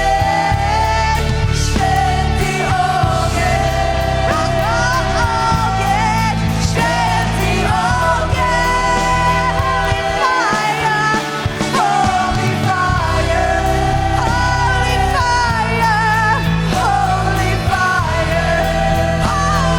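Live contemporary worship music: a band holding sustained chords and bass under a gliding sung vocal line. The bass drops out for a couple of seconds about ten seconds in.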